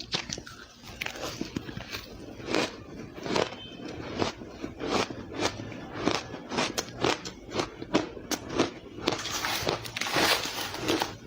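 Ice being bitten and chewed close to the microphone: a run of sharp crunches, roughly two to three a second, with a denser crackling stretch near the end.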